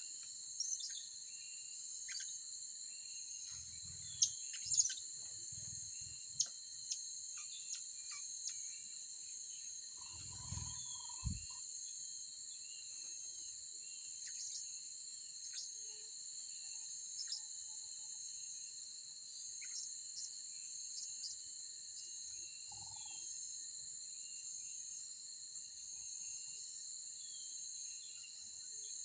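Steady high-pitched insect chorus, with scattered short high chirps from blue-crowned hanging parrots. A few soft low knocks come about four, five and ten seconds in.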